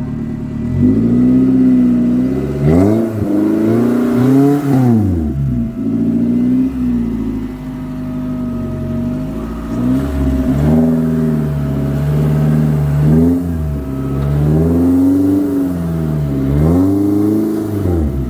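A four-wheel drive's engine being revved up and down again and again under load, with the pitch rising and falling every couple of seconds.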